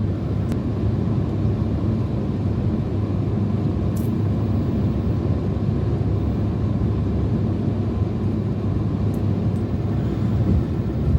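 Steady low road and engine noise inside a moving car's cabin, heard while driving on the highway.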